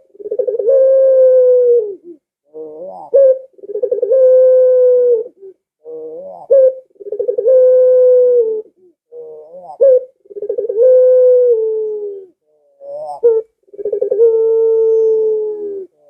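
Barbary dove (burung puter) cooing over and over: five calls about three seconds apart, each a few quick rising notes followed by one long held coo.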